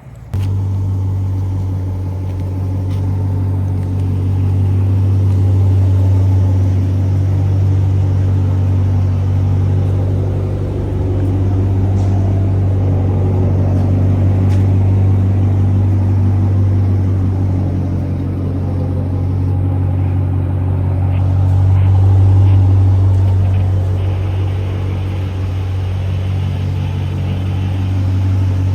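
A 2009 Dodge R/T car driving at a steady cruising speed: a steady low engine drone with road noise, swelling and easing slightly. It starts abruptly just after the beginning.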